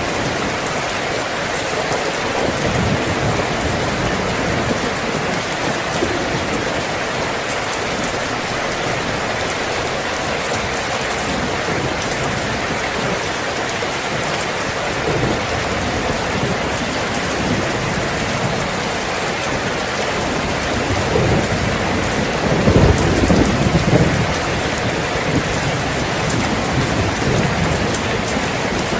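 Steady, heavy rain falling as a dense, even hiss. A low rumble swells and fades about three quarters of the way through.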